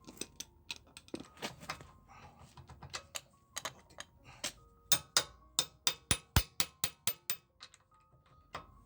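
Hand tools on wheel nuts: sharp metallic taps and clinks of a socket and wrench, some ringing briefly, with a steady run of about three strikes a second in the middle.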